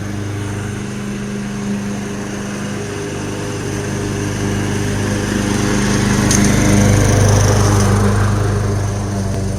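Lawn mower engine running steadily, growing louder from about six seconds in and easing off again near the end as it passes close by.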